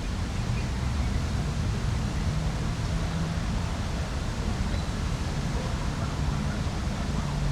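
Steady outdoor ambience at a city lake: an even wash of noise with a low rumble and a faint low hum underneath, with no distinct events.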